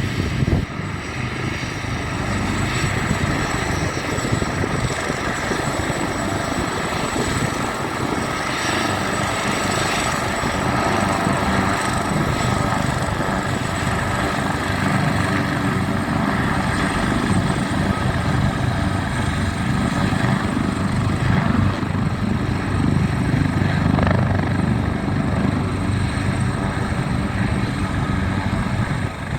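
Helicopter in flight with its doors open: steady rotor and turbine engine noise mixed with rushing wind.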